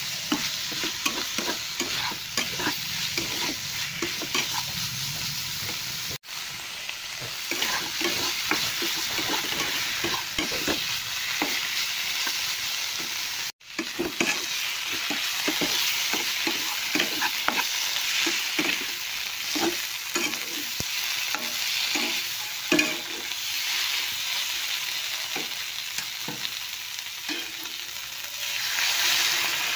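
Potatoes and long beans sizzling in masala in a nonstick kadai, with a spatula scraping and stirring them in quick repeated strokes; the sound cuts out briefly twice. In the last couple of seconds water starts pouring into the pan.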